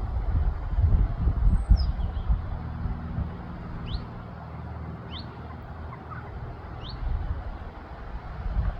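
Common chiffchaff calling: a handful of short, high, thin notes spaced about a second apart. Under them is a loud low rumble of wind on the microphone, gusting at the start and again near the end.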